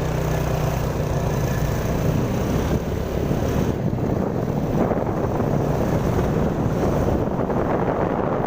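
Wind buffeting the microphone over road traffic, with a vehicle engine running steadily that fades out about three and a half seconds in.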